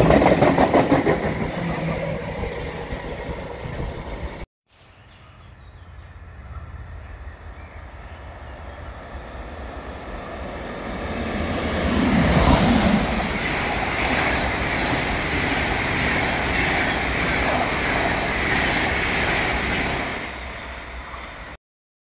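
Freight train wagons rolling past close by, loud and rumbling, until an abrupt cut about four and a half seconds in. Then a DB class 101 electric locomotive approaches, growing louder to a peak about twelve seconds in as it passes, and its train runs on with a steady hiss and a high whine before the sound cuts off near the end.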